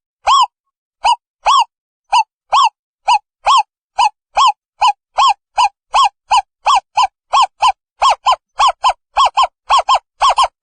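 Owl calling: a long series of short, arched hoots that speed up steadily, from about two a second at first to four or five a second near the end.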